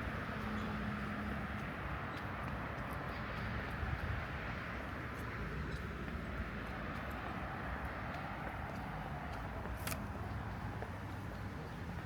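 City street ambience: a steady hum of traffic noise with scattered small ticks, a brief low tone in the first second or so, and one sharp click about ten seconds in.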